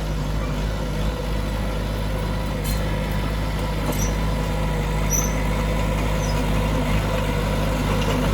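Heavy diesel earthmoving machinery, a bulldozer or dump truck, running steadily at a constant engine speed, its level rising slightly near the end.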